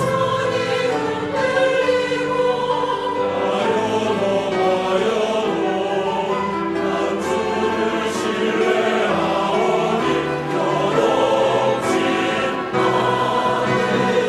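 Church choir singing a sacred anthem, many voices holding sustained notes together.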